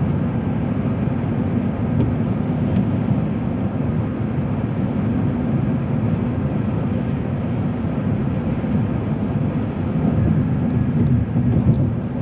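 Steady low rumble of a car's tyres and engine, heard from inside the cabin while driving.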